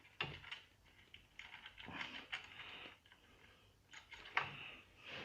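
Faint clicks and short scrapes of small metal parts being handled as a nut with a plastic locking insert is worked onto a bolt of an outboard motor's mount; the nut is refusing to go on.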